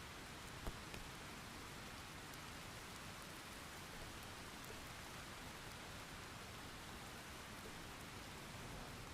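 Steady rain falling, an even hiss, with one sharp drop-like tick less than a second in.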